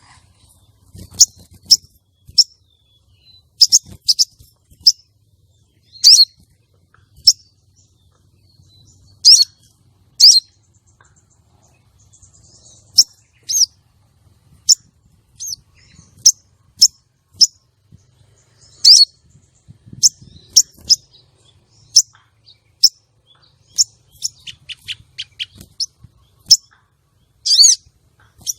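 Female crimson sunbird giving sharp, high chirps, singly or in pairs every second or so, with a quick run of short chirps near the end. These are female sogon calls of the kind used to lure and excite male sunbirds.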